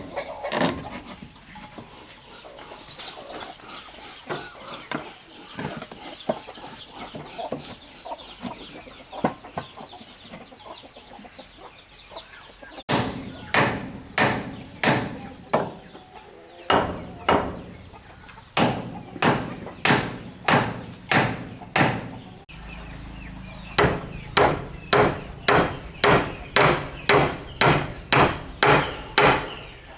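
Chickens clucking. About halfway through, a run of loud, sharp blows of a tool on wood starts: about two strikes a second, in three bursts with short pauses between them.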